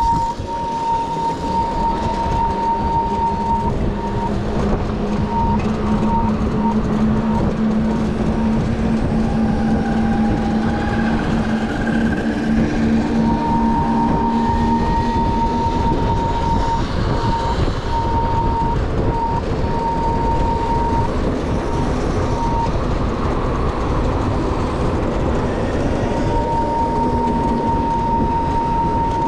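72V ONYX RCR electric motorbike riding at speed: heavy wind and road rumble, with a steady high-pitched whine that cuts out and returns several times, and a lower hum through the first half.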